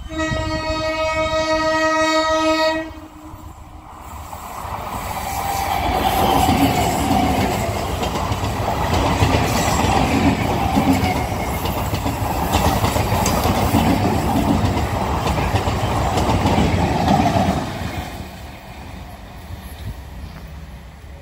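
Indian Railways EMU local train sounds one steady horn blast lasting about three seconds, then passes close by with wheels clattering over the rail joints; the rumble builds, holds for more than ten seconds and fades near the end.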